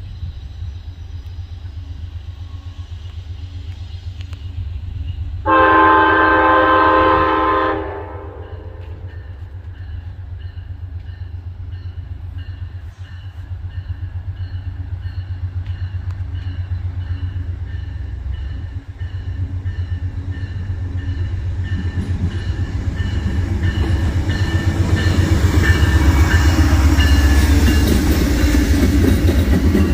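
Diesel freight train: a steady low engine rumble, one long horn blast of about two seconds around six seconds in, then wheel and rail noise building as the train draws close, with a faint ringing tone repeating evenly.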